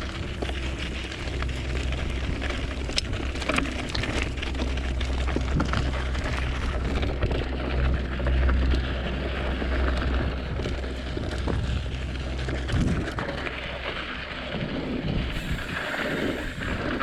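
Santa Cruz Tallboy mountain bike ridden down a rocky trail: wind buffeting the microphone in a steady low rumble, tyres on dirt and rock, and many sharp knocks and rattles from the bike over bumps.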